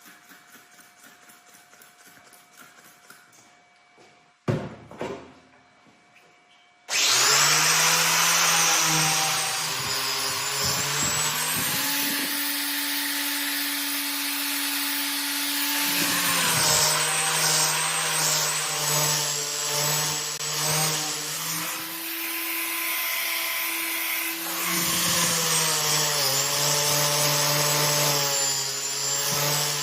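A sharp metal clank about four seconds in. From about seven seconds an electric grinder starts up and runs loudly on steel, its motor hum shifting up and down in pitch several times.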